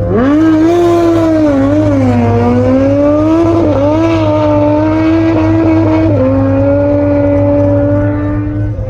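V8 performance car's engine driving at low speed: the pitch rises as it pulls away, wavers up and down, then drops suddenly about six seconds in to a steady lower note.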